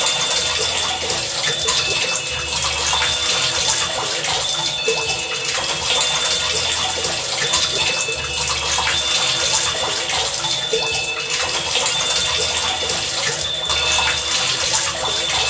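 Heavy rain falling steadily, a dense patter of drops. Short high pitched tones come and go every few seconds over the downpour.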